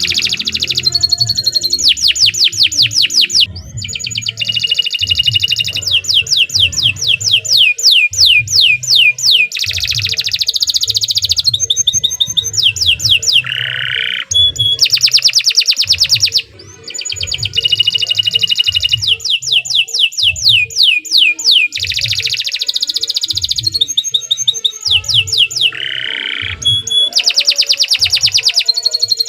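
Domestic canary singing a long, continuous song of fast trills and rolls: rapid runs of repeated descending notes, phrase after phrase, with short breaks about four seconds in and again near the middle.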